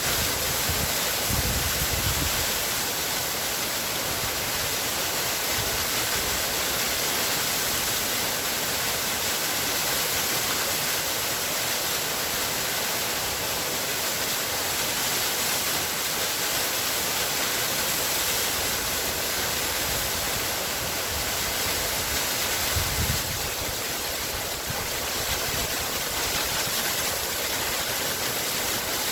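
Waterfall: water falling and splashing in a steady, even rush, with a brief low rumble about a second in and another later on.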